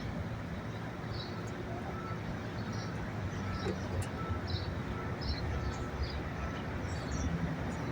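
Steady low rumble of vehicle engine and traffic noise, with faint short high chirps repeating about once a second.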